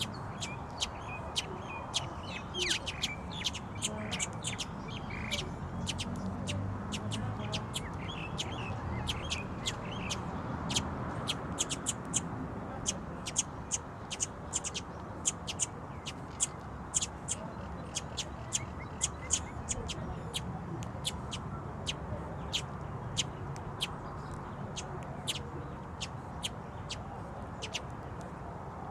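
Small birds chirping: many short, sharp, high chirps, at times several a second, over a steady low background rumble.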